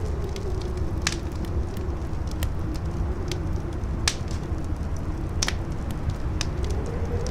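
Campfire crackling, with scattered sharp pops, over howling wind whose moaning pitch wavers and starts to rise near the end, with a steady low rumble of wind underneath.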